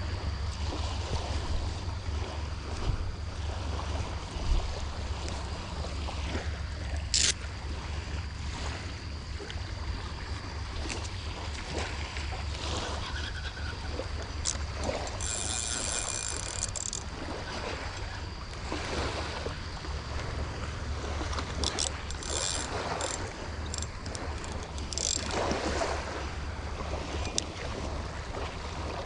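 Wind buffeting the microphone over the wash of light surf, with a few scattered clicks and short high-pitched sounds.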